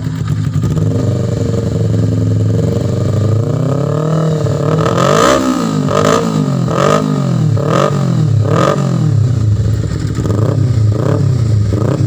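Motorcycle engine breathing through an aftermarket racing exhaust, idling, then revved: a slow climb in revs, about five sharp throttle blips a second apart, then quicker, shorter blips about two a second near the end.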